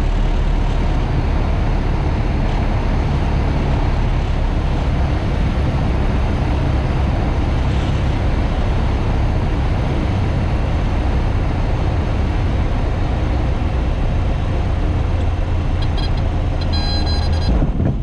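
Piper PA28 light aircraft's engine and propeller droning steadily, heard in the cockpit. A short burst of rapid clicking comes in near the end.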